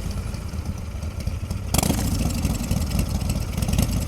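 Royal Enfield Continental GT650's 648 cc parallel-twin engine running at low revs under way. About two seconds in, a loud rush of wind noise on the helmet camera's microphone comes in suddenly and covers much of the engine.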